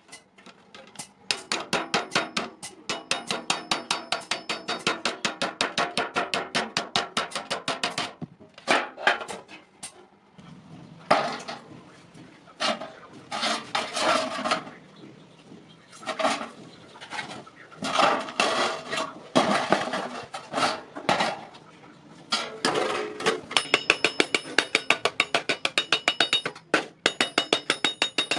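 Hand hammer striking iron on an anvil in quick, even blows, about four to five a second, then a stretch of slower, irregular metal strokes in the middle, and rapid ringing blows again near the end.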